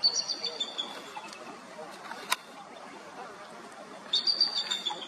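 Eagle calling: two runs of rapid, high-pitched chittering notes, one at the start and one about four seconds in, with a single sharp click between them.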